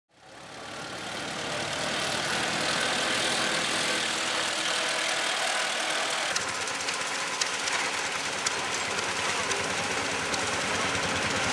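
Vintage tractor engine running steadily, fading in over the first second, with a change in its sound about six seconds in and a few light clicks.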